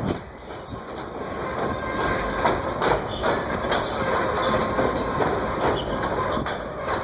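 Coal train's freight cars rolling past, steel wheels clacking irregularly over the rail joints over a steady rumble, with a faint wheel squeal.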